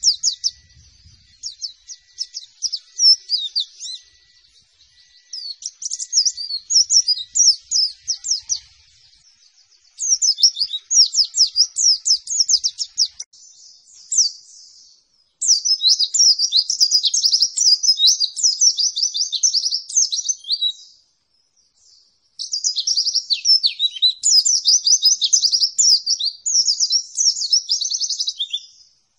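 White-eye (pleci) singing its rapid 'nembak' song: long bursts of fast, high sweeping notes, broken by short pauses.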